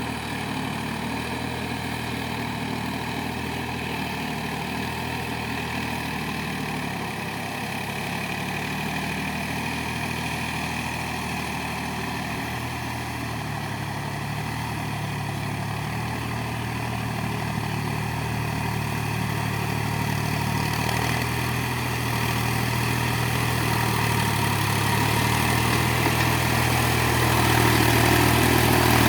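Massey Ferguson Dynatrack 254 DI tractor's diesel engine running steadily, growing louder over the last ten seconds or so.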